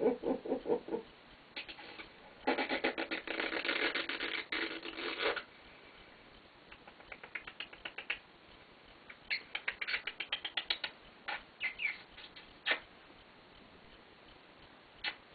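White-bellied caique making a buzzy, rapidly pulsing chatter for about three seconds, followed by runs of quick, sharp clicks and taps.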